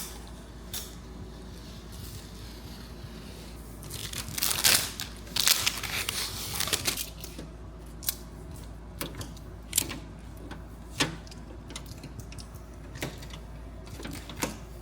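Thin plastic protective film crinkling and tearing as it is peeled off and handled, loudest in a busy stretch a few seconds in, with scattered light clicks and knocks around it.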